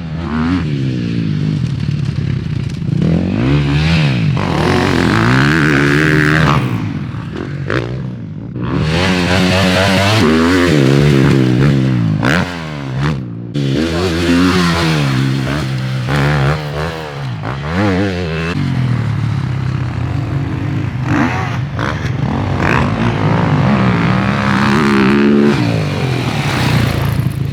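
Dirt bike engine revving up and down as it is ridden around a motocross track, pitch rising and falling over and over with throttle and gear changes, and the throttle briefly chopped a couple of times.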